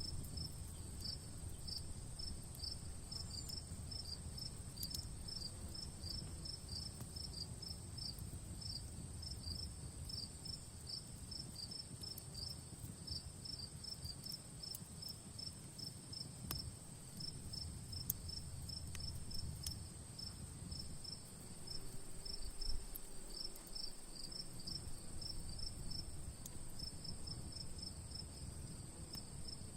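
Insects chirping in a steady repeating pulse, about three chirps a second, over a constant high-pitched insect drone. Under them is the low rumble of an outdoor campfire with a few faint, scattered crackles.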